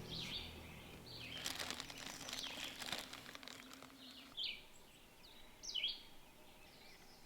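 Wild birds calling outdoors, short chirping notes repeated every second or so, with a crackling rustle for a few seconds in the first half.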